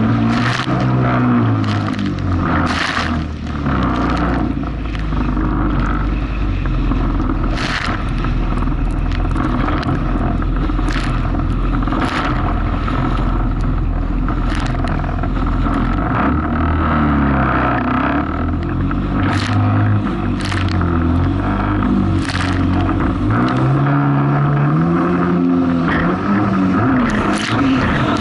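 Jet ski engine running and revving up and down as it crosses rough, wave-tossed water, with repeated sharp slaps of the hull and spray on the waves.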